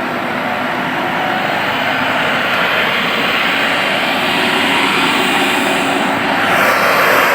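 Tractor engines running hard under load, a steady noisy drone that grows gradually louder.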